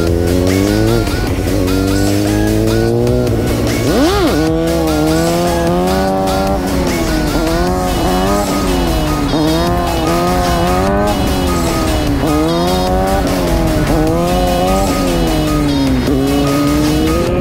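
Suzuki GSX-R750 inline-four with a cat-deleted M4 slip-on exhaust, revving hard: its pitch climbs in steps early on, blips sharply up and down about four seconds in, then rises and falls again and again. Background music plays under it.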